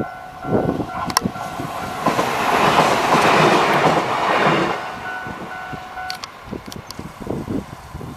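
Enshu Railway electric train passing over a level crossing, its wheels clattering over the rail joints, loudest about two to four seconds in. A level crossing bell rings alongside and stops about six seconds in.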